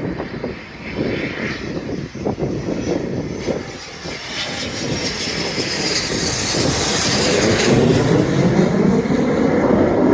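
Fixed-wing aircraft flying past, its engine noise growing steadily louder over the second half, with a high whine that slides down in pitch. Wind buffets the microphone in the first few seconds.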